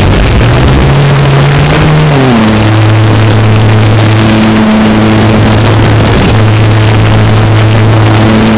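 RC model aeroplane's motor and propeller running close by at a steady high throttle, with a loud rushing noise. Its pitch drops a step about two seconds in as the throttle eases, then holds steady.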